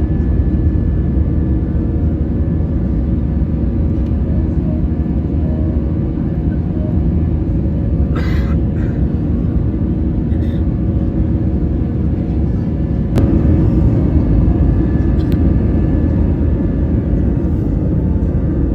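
Steady low rumble and drone of a moving vehicle. A click comes about thirteen seconds in, after which the rumble is a little louder.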